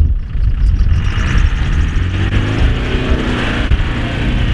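Land Rover Discovery engine revving under load as the 4x4 climbs out of a muddy rut onto a grassy bank, the pitch rising and then falling again around the middle. Wind buffets the microphone throughout.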